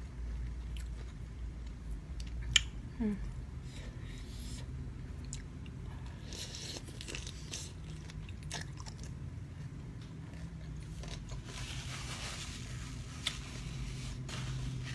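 Close-up eating sounds of raw fresh shrimp with dipping sauce: biting, crunching and chewing, with a few sharp clicks. The loudest click comes about two and a half seconds in.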